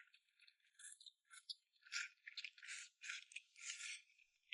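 Faint eating sounds over a bowl of crossing-bridge rice noodles: an irregular string of short, soft, thin noises.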